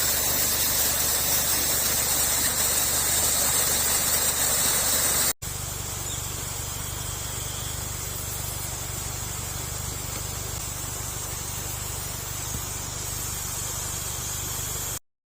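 Steady rush of a waterfall with night insects trilling high over it and a low steady hum underneath. The sound drops abruptly to a quieter level about five seconds in and cuts off just before the end.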